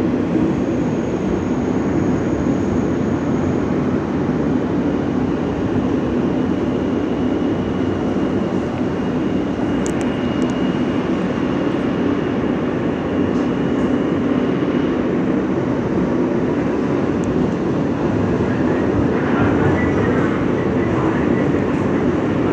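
R160 subway car running between stations, heard from inside the car: a steady rumble of wheels on the rails and car noise. A faint high-pitched whine is held for several seconds in the middle.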